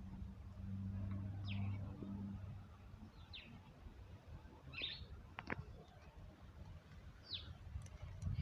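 A small bird chirping: four short, falling chirps a second and a half to two and a half seconds apart, with a low steady hum under the first two seconds.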